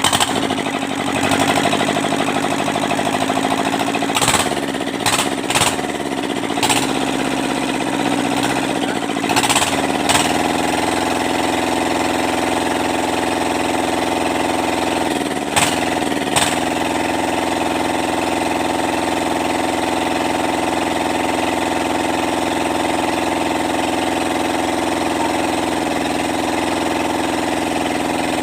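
Kubota Z751 two-cylinder diesel engine running with a clattering beat. It runs unevenly for about the first ten seconds, its pitch wavering and broken by several short jolts, then settles into a steady idle, with two more brief jolts in the middle.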